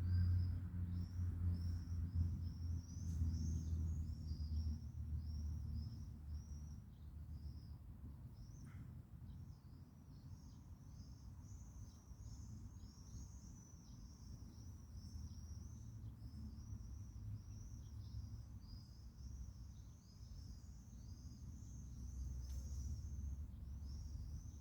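Small birds chirping continuously, a dense run of short high chirps, over a low rumble that is strongest in the first few seconds.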